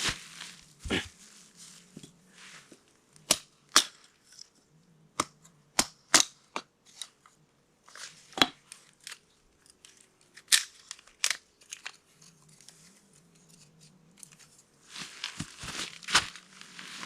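Freshly lit wood fire crackling in a tent stove: irregular sharp snaps and pops over a light rustling hiss.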